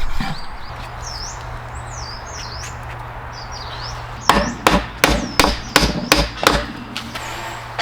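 Wood being knocked, about eight sharp knocks at roughly three a second beginning just past the halfway mark, after faint bird chirps.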